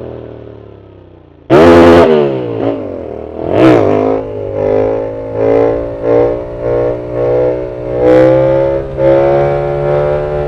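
Yamaha MT-07's parallel-twin engine through a full aftermarket exhaust, first winding down in pitch, then a sudden loud blast about a second and a half in, followed by repeated throttle blips that rise and fall about once a second.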